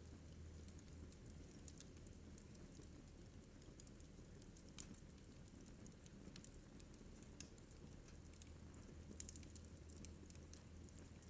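Wood fire crackling faintly, with scattered small pops and snaps at irregular intervals over a low steady hum.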